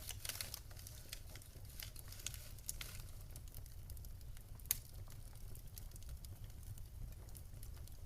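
Wood fire in a fireplace crackling, with a steady low rumble of the flames and scattered small snaps, one sharper pop near the middle.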